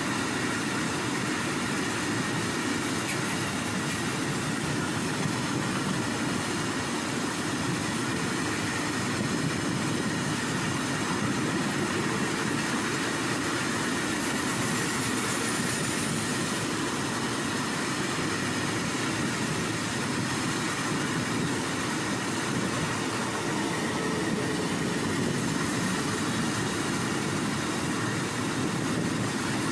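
Sheshnag long-haul goods train, a string of open-top freight wagons, rolling steadily past on the track: continuous wheel-on-rail noise with a faint steady high whine.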